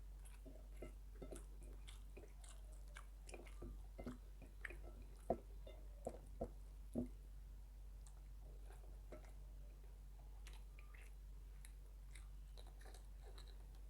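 A person chewing a meal of rice and fried side dishes close to the microphone: soft wet mouth clicks and small crunches, with a few sharper crunchy bites about five to seven seconds in.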